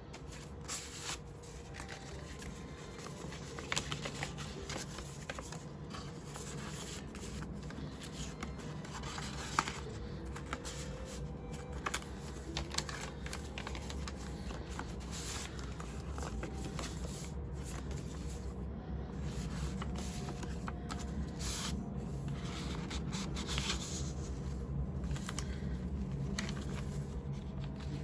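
Paper pages of a handmade journal rustling and flicking as they are turned and handled, irregularly, over a steady low hum.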